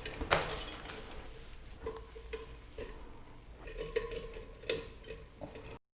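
Light clicking and scraping of small stained glass stars being handled and hung on the back grid of a glass piece, with a few sharper clicks a little past the middle and about three quarters in. The sound stops abruptly just before the end.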